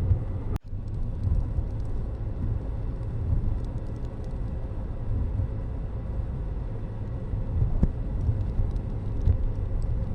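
Steady low rumble of road traffic, broken by a brief cut in the sound about half a second in.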